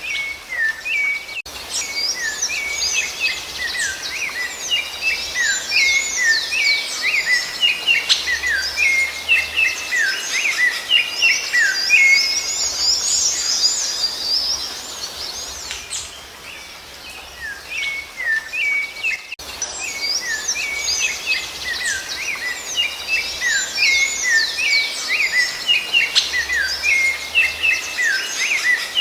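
Rufous-bellied thrush (sabiá-laranjeira) song: a dense run of short whistled notes and chirps. It fades out about 16 seconds in and starts again after an abrupt cut about 19 seconds in.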